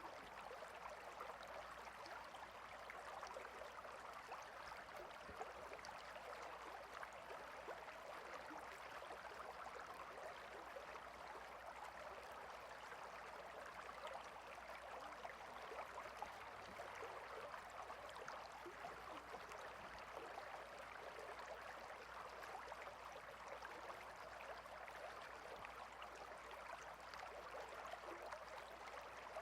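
Faint, steady trickling and babbling of a small water stream, with no break or change.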